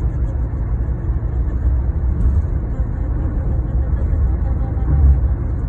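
Steady low rumble of motor-vehicle noise, swelling and easing slightly.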